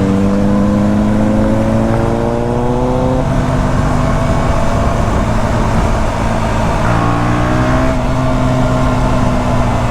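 KTM 125 Duke's single-cylinder four-stroke engine pulling in gear, its pitch rising slowly for about three seconds, then the throttle eases and the note sinks under wind rush for a few seconds. About seven seconds in the engine tone comes back and falls gently, with wind noise throughout.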